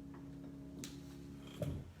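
The last chord of an instrumental improvisation ringing out and fading, cut short by a thump about three-quarters of the way through. There is a sharp click just before the middle, and small handling knocks follow the thump.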